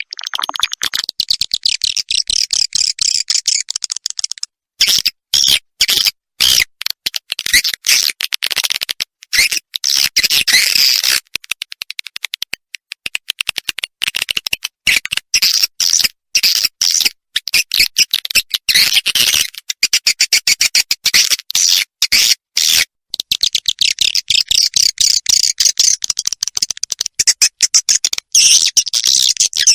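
Recorded edible-nest swiftlet calls, a swiftlet-farm 'inap' (roosting) lure sound played to draw swiftlets in to stay and breed. Rapid, high-pitched twittering chirps and clicks come in long runs, cut by brief sudden silences.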